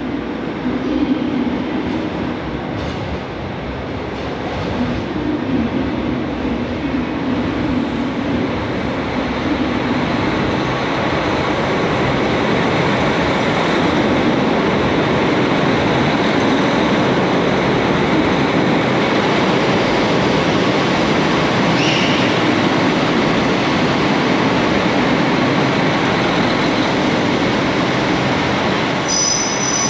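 KiHa 261 series 5000 resort diesel train running on the rails, a loud steady mix of engine and wheel noise that builds over the first dozen seconds and then holds.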